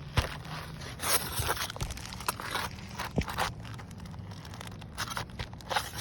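A roof shingle being pried up off its nails: irregular rasping scrapes and tearing with a few sharp clicks.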